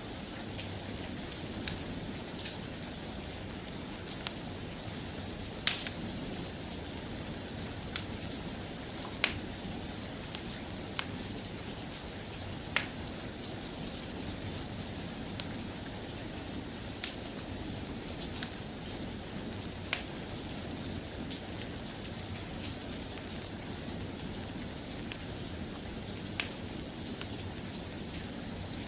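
Steady soft rain, with sharp ticks scattered irregularly every one to three seconds.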